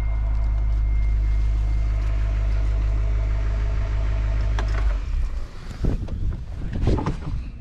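Pickup truck engine idling as a steady low rumble, which cuts off abruptly about five seconds in and is followed by a few knocks.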